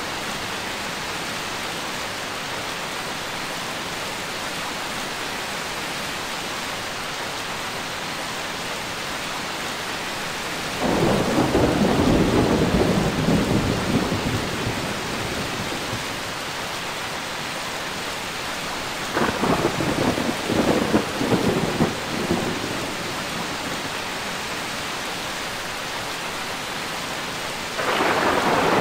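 Steady rain with thunder rolling over it: a rumble swells about eleven seconds in and lasts a few seconds, a broken, crackling peal follows around twenty seconds in, and another rumble begins near the end.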